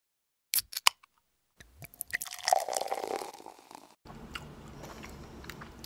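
Close-up eating sounds: a few sharp crunching bites about half a second in, then wet chewing and mouth smacking.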